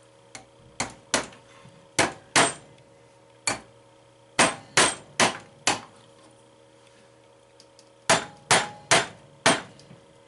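Hammer tapping steel wire ball guides down into drilled holes in a wooden pinball playfield, seating them against a half-inch spacer block. About fourteen sharp taps come in short groups of two to four, each with a brief metallic ring.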